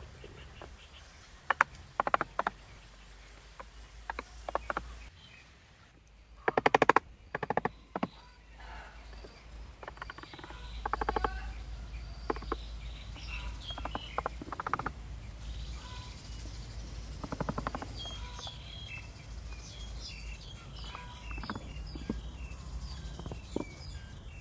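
Irregular sharp knocks and taps, with a quick cluster of them about seven seconds in, then birds chirping in the background through the second half.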